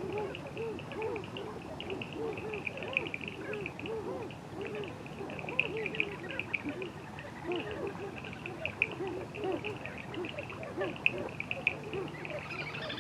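A dense chorus of many overlapping short, low calls, each rising and falling in pitch, over a steady, pulsing high-pitched insect trill.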